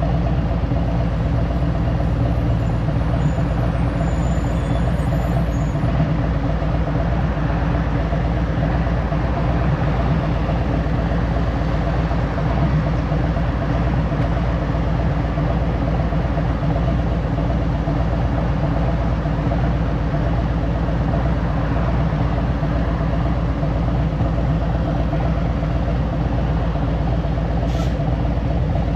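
2023 Harley-Davidson Road Glide Special's Milwaukee-Eight 114 V-twin running steadily on the road, with a brief click near the end.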